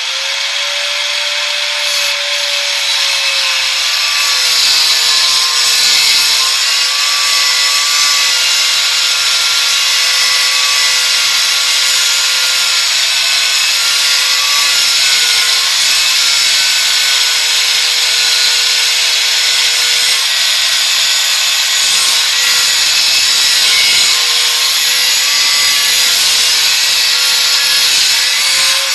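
Grinder disc running against a metal pipe: a steady high motor whine that sags slightly now and then under load, over a harsh continuous hiss of abrasive on metal.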